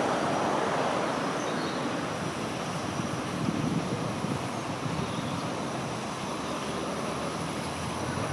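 Steam train hauled by an austerity tank locomotive running into the station: a steady rumble of the train on the rails, with no distinct exhaust beats.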